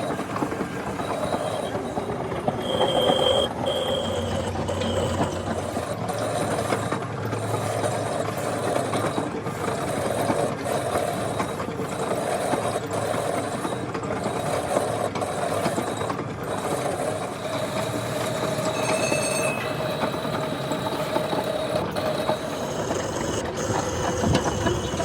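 Continuous mechanical workshop noise with scattered knocks and two brief high squeals, one a few seconds in and one about two-thirds of the way through.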